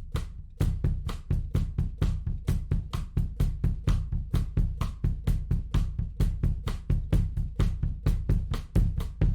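A recorded drum kit playing a steady, fast groove of kick, snare and cymbal hits, run through a tape emulation plugin.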